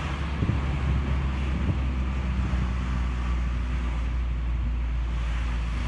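Mazda ND Roadster's 1.5-litre four-cylinder through a Suruga Speed PFS loop-sound aftermarket exhaust, cruising steadily at about 2000 rpm. A steady low exhaust drone sits under wind and road noise, heard with the top open.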